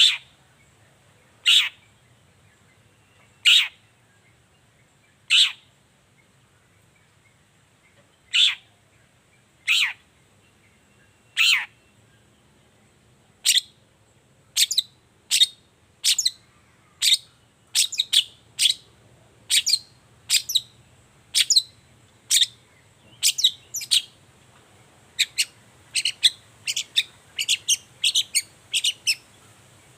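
Long-tailed shrike (cendet) giving a series of sharp, high calls that sweep steeply downward. They come about two seconds apart at first, then faster, about one a second, from about halfway through, and often in pairs near the end.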